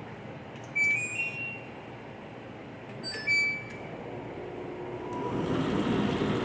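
Condenser tumble dryer's control panel giving two short rising beep chimes as it is switched on and started, then the drum motor starting up about five seconds in with a hum that grows louder as the drum begins to turn.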